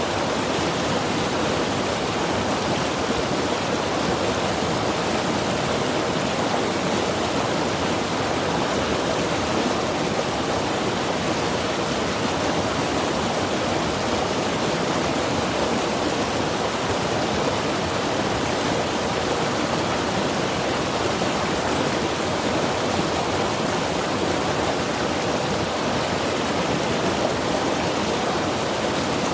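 Mountain river rushing steadily, a continuous even noise of fast-flowing water.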